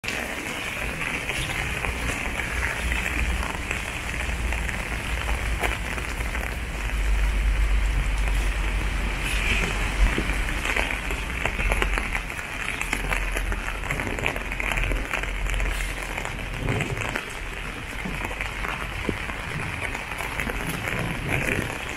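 Steady rain falling on wet paving and puddles, many small drops pattering, with a low rumble underneath.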